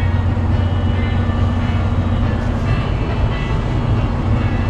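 Semi-truck diesel engine running with a steady low drone.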